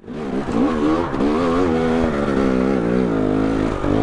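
Two-stroke dirt bike engine running under load on a trail, its pitch rising and falling with the throttle, with brief drops about a second in and near the end as the throttle is rolled off.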